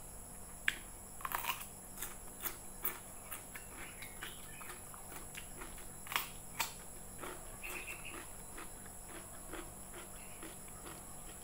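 Close-up eating sounds: crisp crunching bites of raw cucumber, several sharp snaps in the first three seconds and two more about six seconds in, then steady rhythmic chewing near the end.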